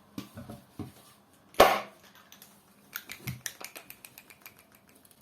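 A few knocks, then one loud impact about a second and a half in, followed by lighter clicking and clatter: an Opel C20XE hydraulic valve lifter, held in an old belt, being struck to knock it apart for cleaning.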